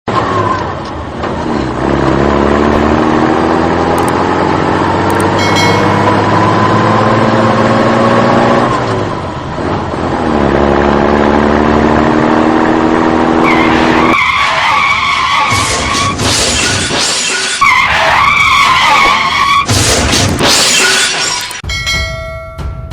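Dubbed vehicle sound effects: an engine accelerating twice with steadily rising pitch, then screeching tyres with a crash-like clatter about two-thirds of the way through.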